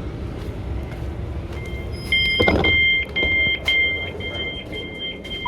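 Class 377 Electrostar door-closing warning beeping: a high two-note tone that starts about two seconds in and pulses on and off about twice a second, over the low rumble of the train. A loud knock comes shortly after the beeping starts.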